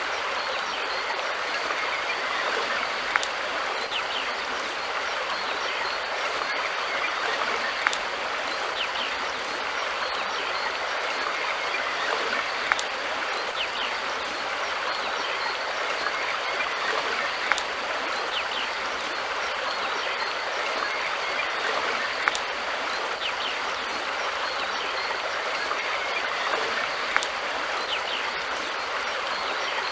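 River water flowing steadily, an even rushing hiss, with a short sharp click about every five seconds.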